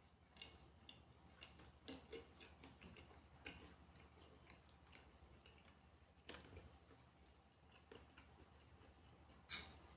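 Faint, irregular mouth sounds of someone chewing food: small clicks and smacks, with a few louder ones near two, three and a half, six and a half and nine and a half seconds in.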